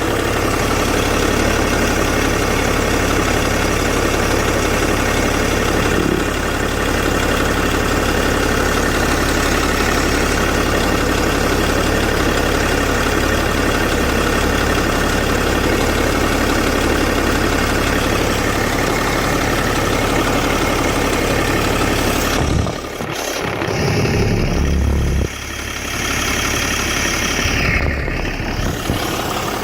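BMW E61 525d's straight-six diesel engine running steadily at idle, with a few seconds of uneven sound about three quarters of the way through.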